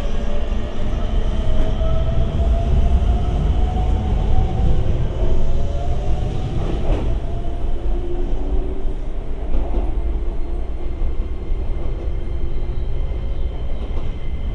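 Chiba New Town Railway 9800 series electric commuter train pulling out of the station: a steady low rumble of wheels on rail, with a faint motor whine that rises in pitch as the train gathers speed. A sharp click about seven seconds in.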